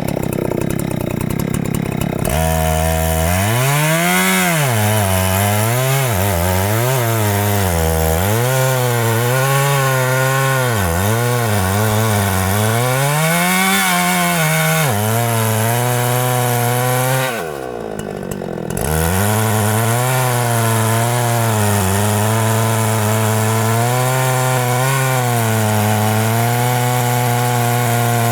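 Two-stroke chainsaw cutting into a huge tree trunk, its engine speed rising and falling over and over as the chain bogs down under load. About two-thirds of the way through the engine drops sharply, nearly stalling, then picks back up and runs steadier.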